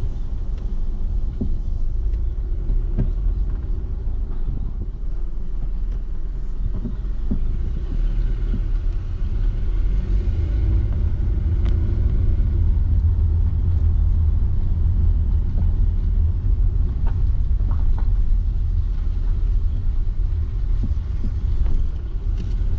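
Car driving, with a steady low road and engine rumble, a little louder in the second half, and a few faint knocks from the road surface.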